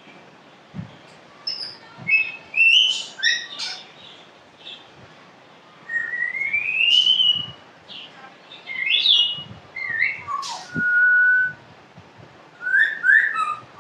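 African grey parrot whistling and chirping in a string of short separate notes, some gliding up or down, with a long rising whistle about six seconds in and a steady held note near the eleven-second mark.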